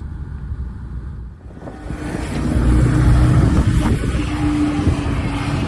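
Snowcat grooming machine running: a steady low engine rumble with a steady whine over it, and about two seconds in a loud rushing noise builds up and holds.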